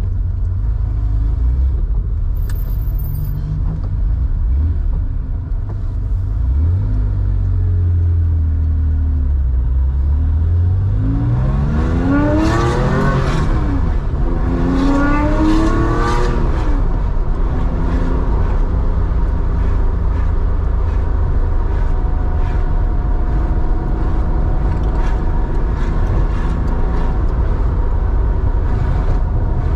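Air-cooled Porsche 911 3.4-litre flat-six breathing through a Scart 2-in-1-out muffler, running low and steady at first. About midway the engine note climbs hard twice, dropping between the climbs on the gear change, then settles to a steady cruising note.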